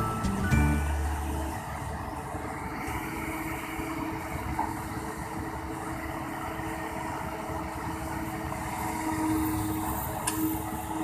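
Heavy diesel engine of the coal-unloading machinery running steadily, swelling slightly near the end.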